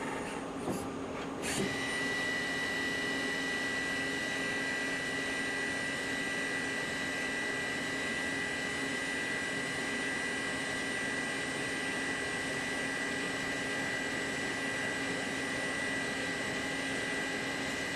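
CNC lathe running with a steady mechanical whine made of several constant tones. Two short clicks come in the first second and a half, and right after the second one a strong steady high tone sets in.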